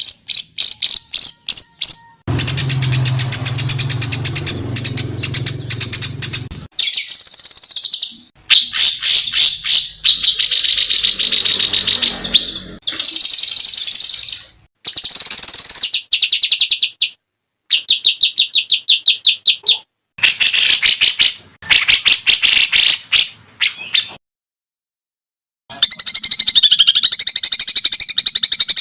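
A spliced sequence of songbird recordings made for training caged birds: bursts of rapid, repeated high chirps and trills, each clip starting and stopping abruptly. After a brief silence near the end comes a denser, buzzier chirping.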